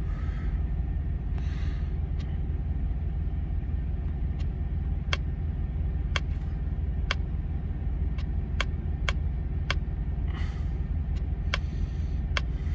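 Steady low rumble of an idling truck, with a run of sharp clicks at uneven spacing, about one or two a second, starting partway through: buttons being pressed on the electronic logging device as the driver tries to make the display scroll.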